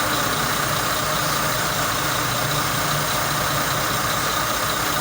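Backhoe's engine idling steadily, a low even rumble with hiss over it.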